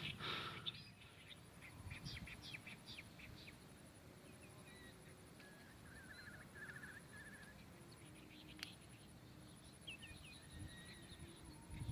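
Near-quiet outdoor ambience with faint, scattered small-bird chirps and a short trill, and one sharp click about eight and a half seconds in.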